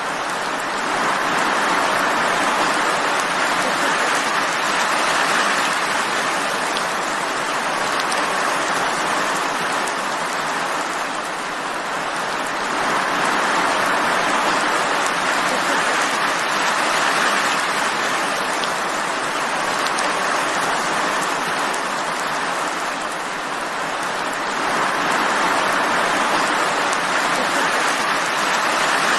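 Steady rain falling, a dense even hiss that swells and eases slowly about every twelve seconds.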